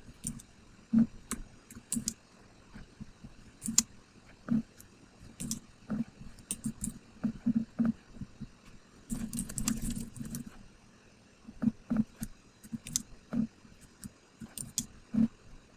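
Typing on a computer keyboard: irregular keystrokes with pauses, and a quick run of keys about nine to ten seconds in.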